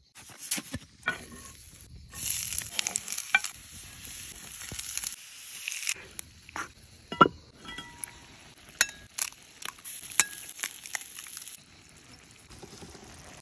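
Chopped tomatoes and peppers frying in a clay tile pan, sizzling in two spells, with the clicks and scrapes of a spoon stirring them and a sharp knock about seven seconds in.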